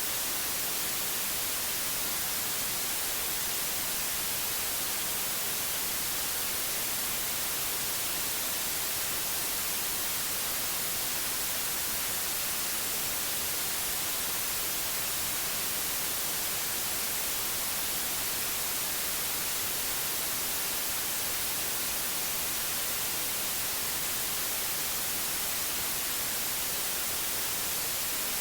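Steady white noise: an even, unbroken hiss, brightest in the high end, with no changes or other events.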